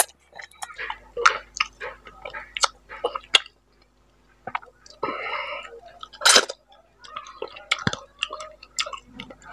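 Close-miked chewing and wet mouth smacks of a person eating a handful of rice and fish curry: irregular clicks and smacks, with a short pause before the middle and the loudest smack about six seconds in.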